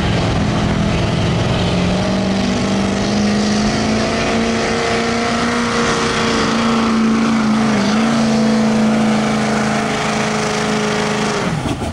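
Diesel pickup truck engine held at high revs under full load pulling a weight sled, its pitch nearly steady with a brief dip about eight seconds in. Near the end the revs drop sharply as the throttle is let off.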